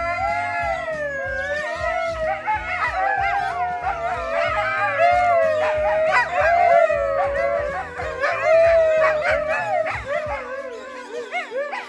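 Several dingoes howling together in overlapping, wavering calls, set off by their owner arriving with food. A steady low music beat runs beneath and stops near the end.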